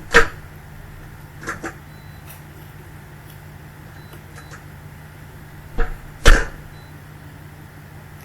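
Dishwasher running mid-wash, heard from inside the tub: a steady low hum of the circulation pump with a few sudden loud splashes and knocks of water spray striking the camera, the loudest near the start and about six seconds in.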